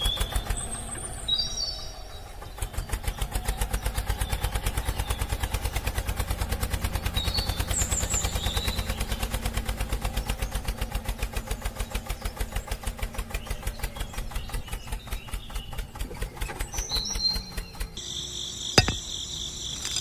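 Small electric motor of a homemade toy tractor and chaff cutter model running, with a fast, even clicking and a steady hum beneath; it starts about two and a half seconds in and stops near the end. Birds chirp over it, and crickets trill after it stops.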